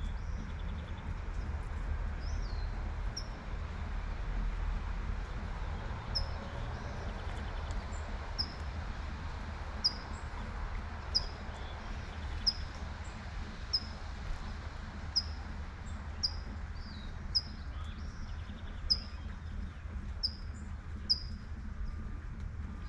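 Light rain and a steady low traffic rumble, with a small bird repeating a short high chirp about once a second from a few seconds in.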